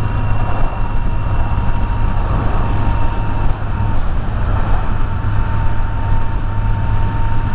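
Kawasaki Z900 inline-four engine running at a steady cruising speed, a constant hum mixed with wind and road noise.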